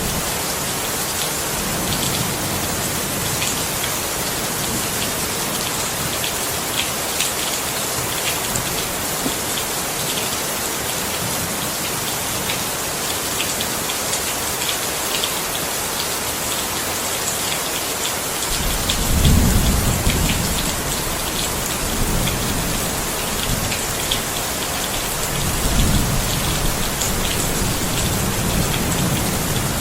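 Steady heavy rain hissing, with individual drops pattering on a surface. Low thunder rumbles twice, once about two-thirds of the way in and again near the end.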